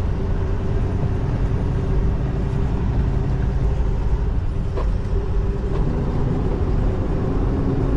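Semi truck's diesel engine running while the truck drives slowly, heard from inside the cab as a steady low rumble. There is a short click about five seconds in.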